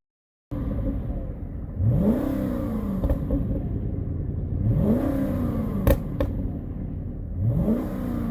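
Cadillac STS Northstar V8 with its mufflers deleted, idling and blipped three times, each rev rising and falling back, with a few sharp exhaust pops on the way down.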